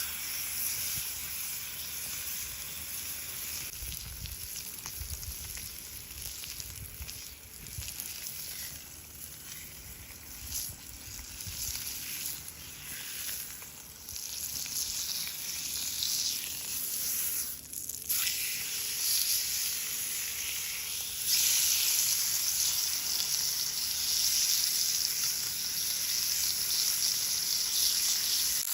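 Steak sizzling on a hot pan over a campfire, the sizzle growing noticeably louder about two-thirds of the way through.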